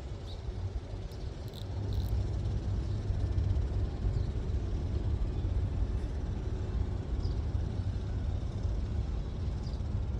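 A steady low rumble, with a few faint, short high chirps over it.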